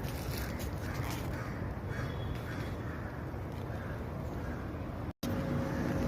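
Crows cawing repeatedly in short harsh calls over a steady low outdoor rumble. The sound cuts out for an instant near the end, and a steady hum begins after the cut.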